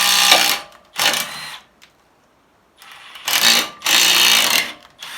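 Handheld power tool running in several short bursts of about a second each, driving bolts into the brake rotor's threaded jacking holes to force a rust-seized rotor off the hub.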